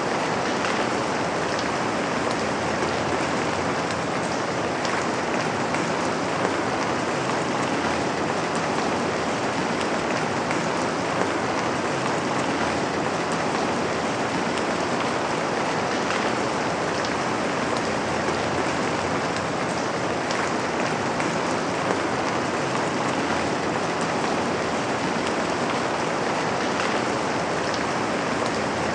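Steady rain pattering on a window pane and garden, an even hiss with occasional louder drops.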